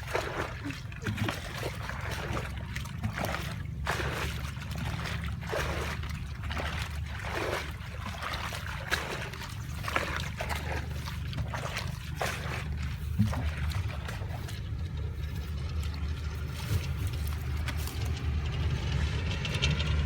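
Shallow water splashing and sloshing in irregular bursts, as people wade and grab at fish by hand, over a steady low rumble. The splashes thin out in the second half.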